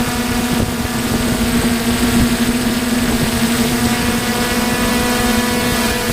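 DJI F550 hexacopter's six electric motors and propellers running at a steady hover, a loud, even hum made of several held tones over a rushing noise.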